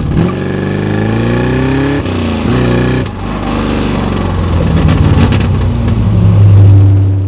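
1979 Chevrolet Corvette's L82 350 V8 accelerating, heard from inside the cabin: the engine note climbs, drops with a gear change of the 4-speed manual about two seconds in, climbs again, then settles into a steady pull that grows loudest near the end.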